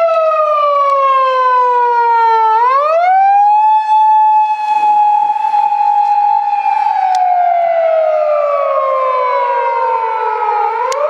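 A siren wailing in one continuous tone. Its pitch falls slowly, rises quickly about two and a half seconds in and holds high for a few seconds, then sinks slowly and rises again just before the end.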